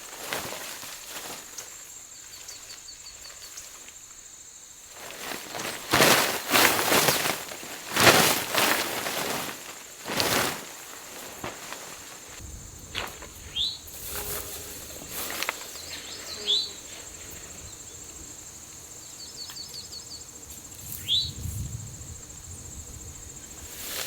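Several bursts of rustling and handling noise from a tarp and gear being set up, with footsteps, loudest in the first half. Birds give a few short rising chirps in the second half, over a faint steady high insect hum.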